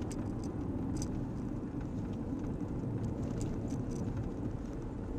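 A car on the move: steady low road and engine noise, with a few faint clicks.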